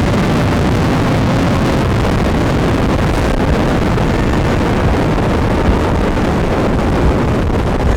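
Yamaha FZ6R inline-four motorcycle with a Delkevic exhaust, riding at a steady speed: a steady engine and road noise with wind buffeting the microphone.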